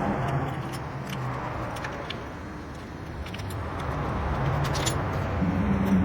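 Engine running steadily, its note dipping in the middle and strengthening near the end, with light metallic clinking.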